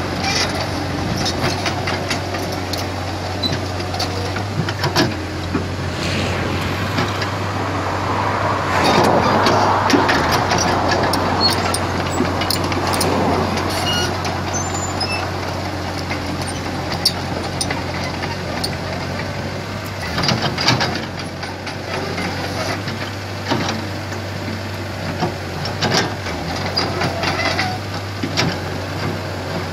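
Komatsu PC75 hydraulic excavator running steadily while working, with scattered sharp knocks. The engine gets louder and works harder from about eight to thirteen seconds in.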